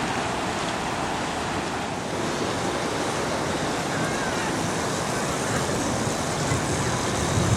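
Steady rushing of a creek in flood, fast-running floodwater.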